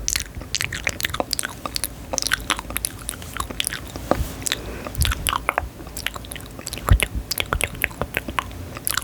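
Close-miked ASMR crackling and crunching: a dense, irregular run of sharp little clicks and crackles, with one louder knock about seven seconds in.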